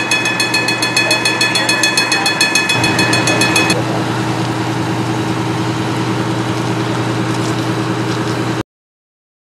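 An engine idling with a steady low hum, under a bell ringing rapidly, about five strikes a second. The bell stops a little over a third of the way in while the engine runs on, then all sound cuts off suddenly near the end.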